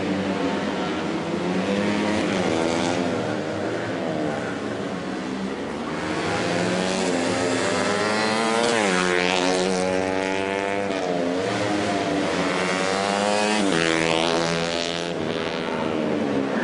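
Racing motorcycle engines revving at high pitch, the pitch climbing and dropping several times as the bikes accelerate and slow past.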